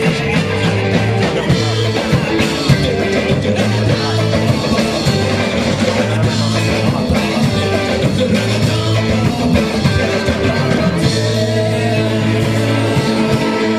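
Live rock band playing with singing, drums, bass and electric guitar.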